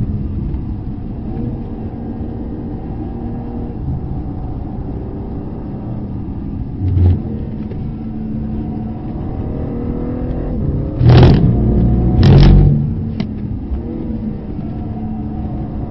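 Race car's engine heard from inside the cabin at speed, pulling and easing off as it brakes and accelerates through corners. About two-thirds of the way through come two loud, short bangs about a second apart.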